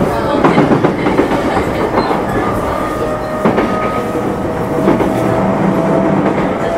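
JR Yokohama Line E233-series electric train running: a steady rumble of wheels on rail with irregular clacks over the rail joints and a slowly rising motor whine.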